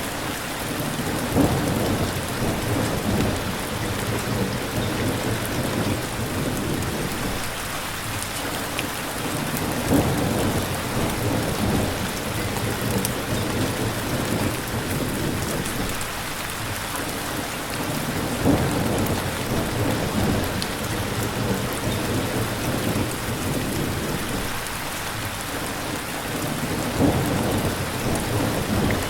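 Steady heavy rain falling, with a low rumble of thunder swelling up four times, about every eight or nine seconds.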